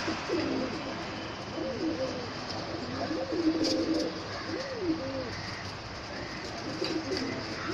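Several pigeons and doves cooing, their low, rising-and-falling coos repeating and overlapping one another.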